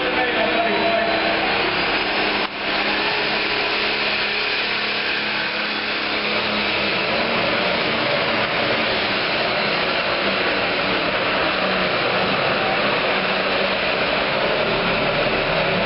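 Pro stock pulling tractor's turbocharged diesel engine running hard under load, a loud, steady wall of engine noise. A faint rising whistle sits on top in the first couple of seconds, and the noise drops briefly about two and a half seconds in.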